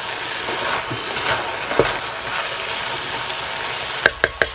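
Beef mince and vegetables sizzling in a Trangia pot while a wooden spoon stirs and scrapes through them. About four seconds in, a quick run of sharp knocks, about six a second, as the spoon strikes the pan.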